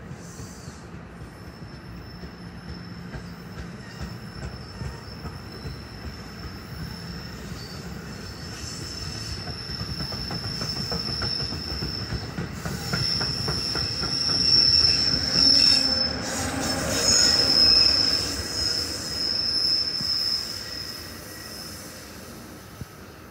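NJ Transit train passing, its wheels giving a steady high-pitched squeal on the rails, with rhythmic clicking of wheels over rail joints. The sound grows louder to a peak a little past halfway, then fades away.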